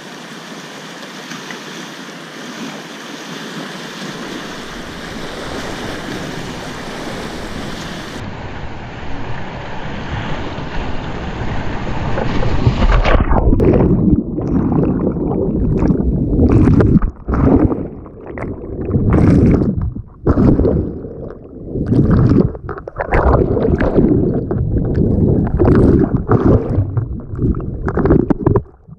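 Steady rush of river water heard from a kayak; about halfway through, loud irregular buffeting of wind and water on the microphone takes over, surging and dropping away every second or two.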